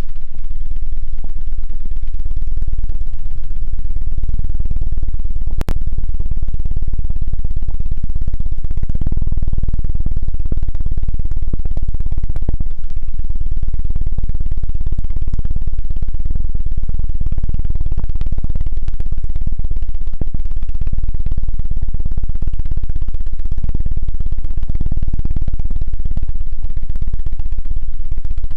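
ASMR 'helicopter' ear-cleaning effect on the microphone: a loud, rapid, low thumping flutter like rotor blades. It breaks off for an instant with a click about six seconds in.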